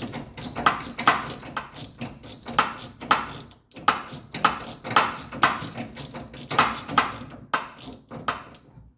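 Hand tools worked against a tight lock nut under a Triumph TR3's steering rack: a steady run of sharp metal clicks and knocks, about three a second.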